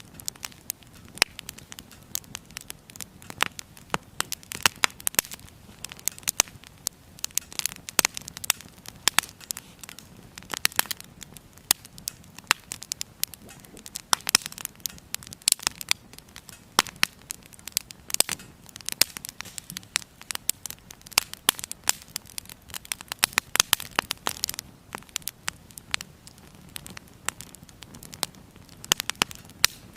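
Wood fire burning in a small firebox stove, crackling and popping with many irregular sharp snaps over a soft steady hiss.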